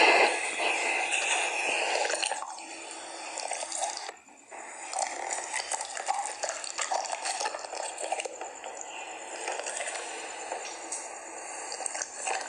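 Water splashing and dripping, a busy run of small wet clicks and splashes with a brief lull about four seconds in.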